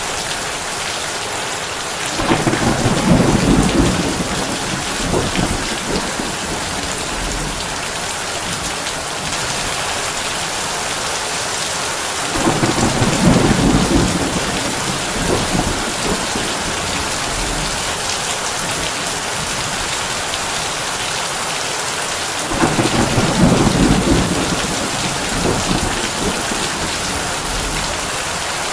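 Heavy rain drumming steadily on a tin roof, with three low rolls of thunder about ten seconds apart, each lasting a few seconds.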